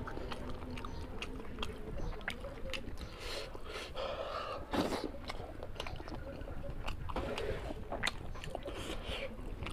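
Close-up chewing and lip-smacking of a person eating curry with rice, with many quick wet mouth clicks at an uneven pace. There is one louder brief burst of noise about five seconds in.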